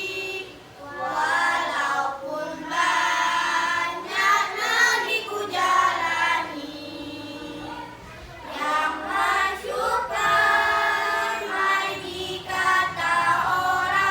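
A choir of young teenage schoolchildren singing, phrase after phrase, with long held notes.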